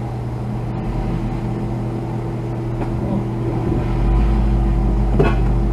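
Car engine running with a steady hum, its low drone growing louder about four seconds in as the car is driven forward under more throttle, trying to get traction to free itself.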